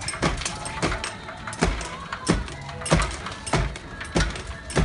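Regular thuds, about three every two seconds, over a hissy background.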